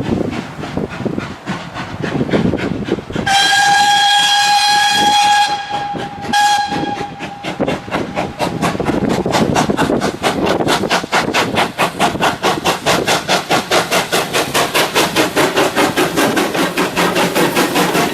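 Steam locomotive whistle: one long blast then a short one, followed by the locomotive's exhaust beats pulsing steadily several times a second as it works a train.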